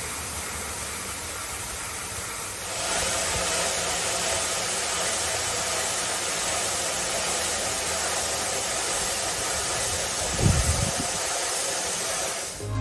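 Johannsen T86 long-belt sander running with a steady rushing noise that grows louder about three seconds in. A brief low thump comes near the end.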